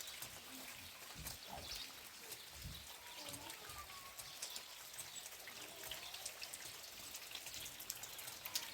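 Rain falling faintly, with many small, scattered drop clicks.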